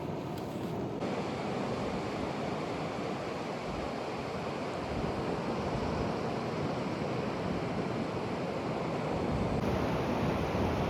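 Ocean surf: a steady wash of waves breaking on a beach, getting a little brighter and fuller about a second in.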